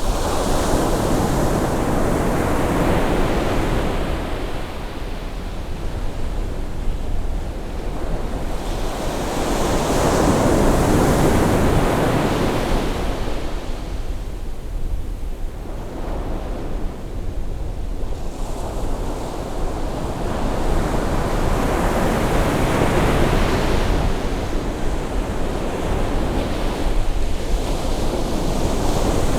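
Ocean waves breaking and washing onto the shore as the tide comes in, in slow surges: about three long swells of surf, with wind rumbling on the microphone.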